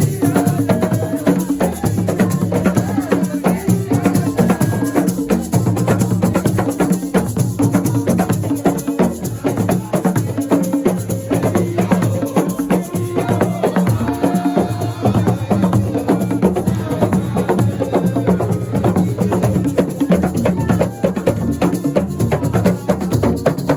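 Live assiko music: a fast, dense percussion rhythm of knocking wood-block-like strikes and shaken rattles.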